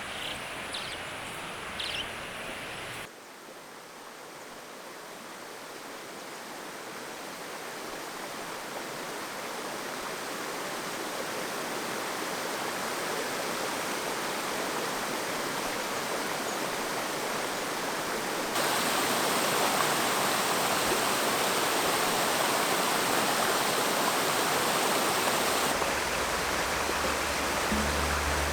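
Flowing stream water, a steady rush that swells gradually and jumps in level at cuts about 3, 18 and 26 seconds in.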